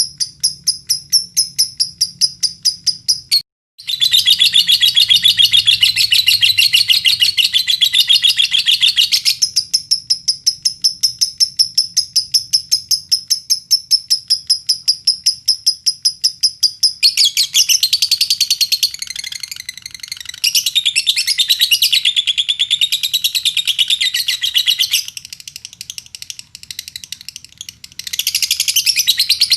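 Lovebird singing in long runs of rapid, evenly repeated high chirps, cutting out briefly about three and a half seconds in, with denser, more jumbled chattering in the second half.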